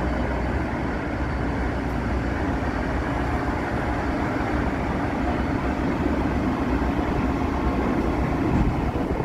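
Siemens Charger diesel locomotive of a Capitol Corridor passenger train pulling into the station platform, its engine and wheels making a steady rumble as it slows nearly to a stop.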